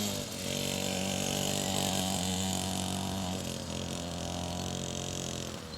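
SYXmoto 50cc two-stroke dirt bike engine running under a rider, its pitch rising and falling with the throttle and easing off near the end.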